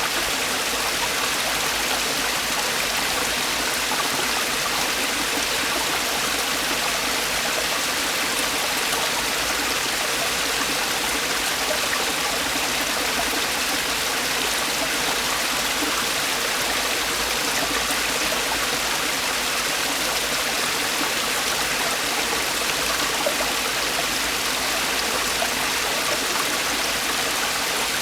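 Mountain stream water falling and rushing over rocks in a valley, a steady unbroken rush.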